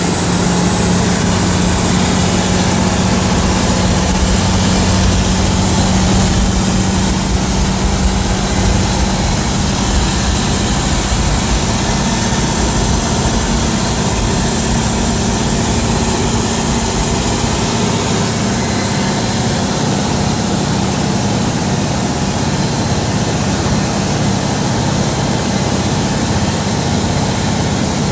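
Diesel engine of a Khlong Saen Saep canal express boat running steadily and loudly at cruising speed, with a thin steady high whine above the drone.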